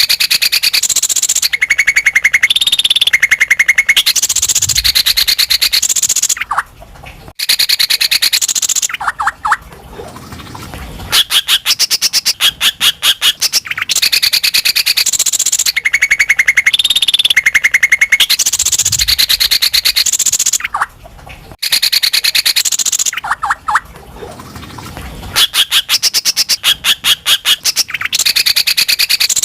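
Cucak ijo (green leafbird) singing loudly and energetically: long phrases of very fast repeated high notes and trills, broken by a few short pauses.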